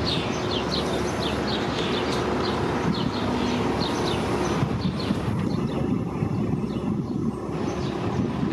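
Transit bus engines running and idling in a bus loop: a steady low rumble with a constant hum. A run of short, high, falling chirps repeats several times a second and stops about five seconds in.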